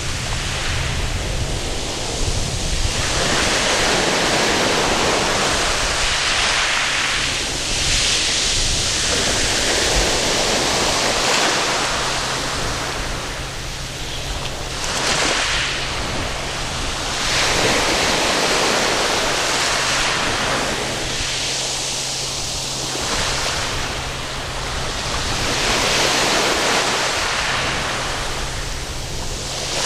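Waves breaking and washing up a sandy beach, the surf swelling and easing every several seconds.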